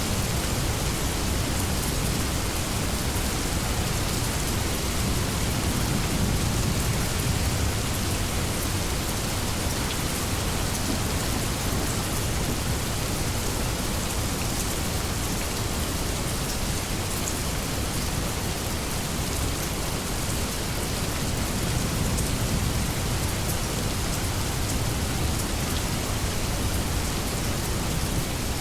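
Steady rain falling, an even hiss of drops on leaves, with a low thunder rumble swelling in the first few seconds and again near the end.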